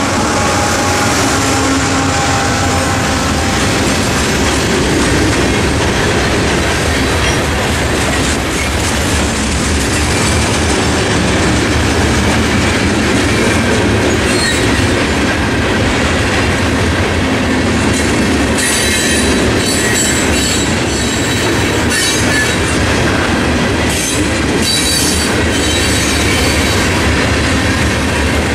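Loaded CSX coal train rolling past: the mid-train GE ET44AH locomotive runs by near the start, then a steady rumble of steel-wheeled coal hopper cars. From about two-thirds of the way in, high-pitched wheel squeal comes and goes.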